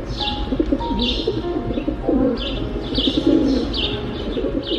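Rock pigeons cooing in low, wavering calls, with short high bird chirps repeating over them.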